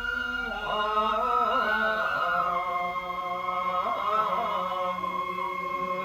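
Voices chanting the slow, drawn-out song that accompanies a nenbutsu kenbai dance, with long held notes that waver and bend in pitch.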